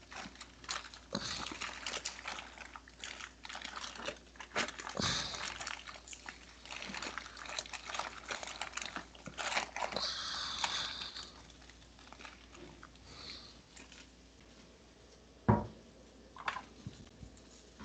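Kitchen work sounds while frying chicken: irregular clicks, clatter and rustling, busiest in the first ten seconds or so, then quieter, with one sharp knock about fifteen seconds in.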